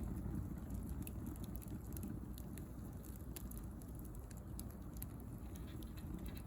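Bonfire of dry pruned rose branches and twigs burning: a steady low rumble of flames with scattered small crackles and pops.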